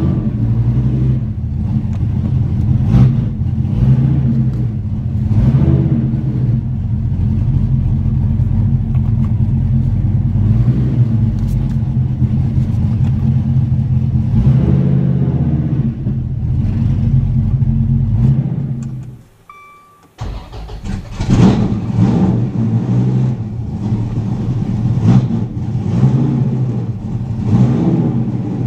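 2016 Dodge Viper ACR's 8.4-litre V10 running loud through 3-inch straight pipes with the mufflers removed, revved again and again over its idle. About two-thirds of the way through the sound drops out to near silence for about a second with a short beep. Then the engine is loud again with a rev.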